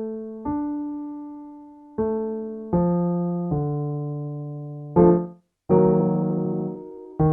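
Piano playing the accompaniment for a minor-arpeggio vocal warmup: single notes struck one after another, each ringing and fading. About five seconds in a short note sounds, then a chord is held for about a second and cut off sharply before the next notes begin.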